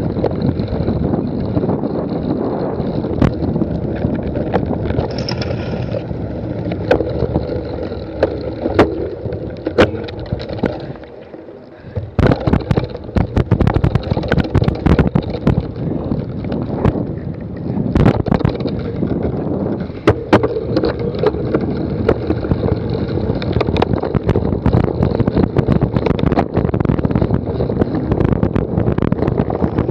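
Wind rushing over a bike-mounted or rider-worn camera's microphone during a cyclocross race, with frequent knocks and rattles from the bike jolting over rough ground. The noise briefly drops about a third of the way through, then resumes.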